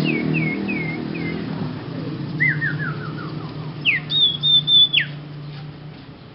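A young sirpu songbird singing an unfinished, odd-sounding song: four short falling whistles, a quick run of notes stepping down in pitch, then a rising note into a held, wavering high whistle that drops away about five seconds in. A steady low hum runs underneath, loudest early on.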